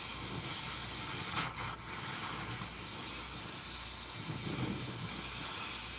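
Heavy-duty melting torch burning with a steady hiss as it heats the silver and the pouring dish; the hiss dips briefly about one and a half seconds in.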